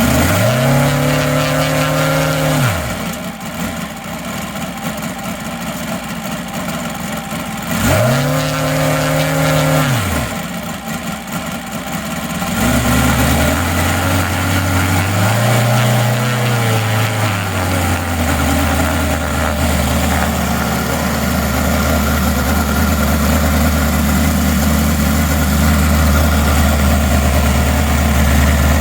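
UMS 7-90 seven-cylinder radial gas model aircraft engine being throttled: revved up and back down twice, each time a smooth rise and fall in pitch, then opened to a higher setting about halfway through, with a brief swell, and held running steadily there.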